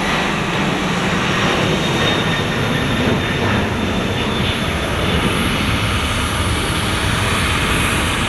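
Twin jet engines of a Boeing 767-300F freighter at takeoff power as it climbs away, a steady rushing noise with a deep rumble underneath.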